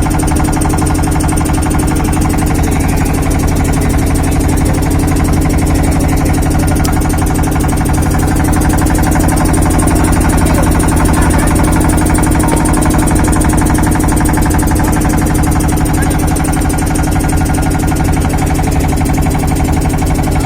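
A steady, unchanging low engine hum, like a motor idling.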